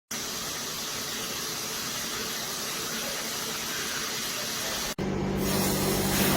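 Shower head spraying water: a steady hiss of running spray that cuts off abruptly about five seconds in. It resumes at once, louder, with a steady low hum under it.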